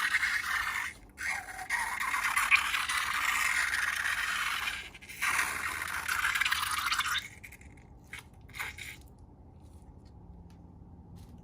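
Continuous scraping, crackling noise from slime being worked, broken briefly twice and stopping about seven seconds in, followed by a few light clicks.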